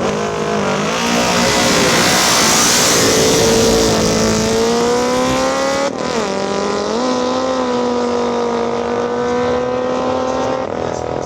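A classic sprint-racing motorcycle engine at full throttle, its pitch climbing steadily. About six seconds in it drops sharply at a gear change, then dips again a second later before holding high and steady.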